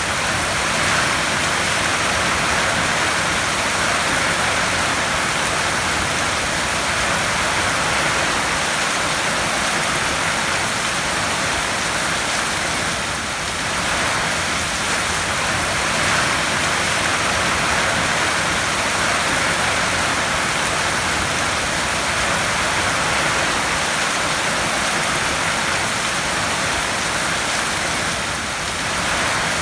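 Heavy rain falling steadily on a tin roof: a dense, even hiss of countless drops, easing slightly for a moment about halfway through.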